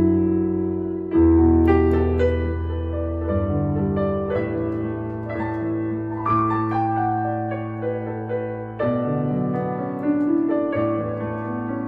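Yamaha MX61 synthesizer playing a piano voice: held chords over a bass note that changes every second or two, with single melody notes on top.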